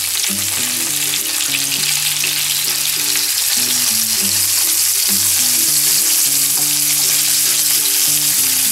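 Sawara fillets sizzling steadily in hot oil in a frying pan as they are turned over with chopsticks, the skin side already seared brown.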